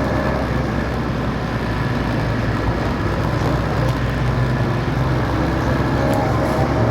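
Motorcycle engine running steadily on the move, with continuous road and wind noise.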